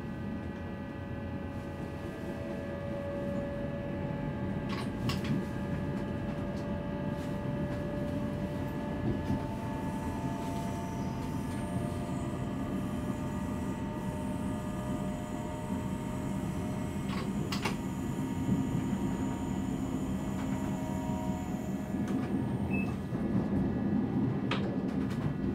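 Passenger train running on the line, heard from the driver's cab: a steady rumble of wheels on rails under a few whining tones, with occasional sharp clicks and knocks.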